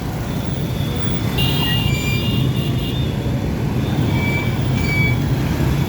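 Steady rumble of road traffic, the engines of passing cars and trucks, with a few faint brief high tones over it.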